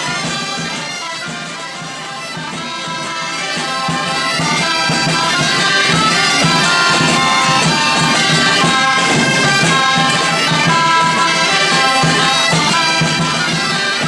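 Bagpipes playing a tune over a steady low drone, dipping slightly about two seconds in and then swelling louder.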